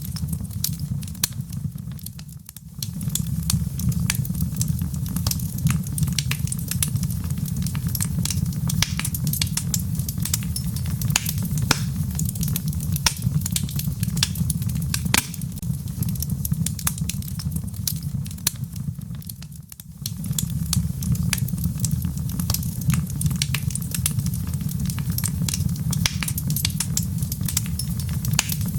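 Wood fire in a fireplace crackling and popping with many irregular snaps over a steady low rumble. The sound dips briefly twice, about two seconds in and again around twenty seconds.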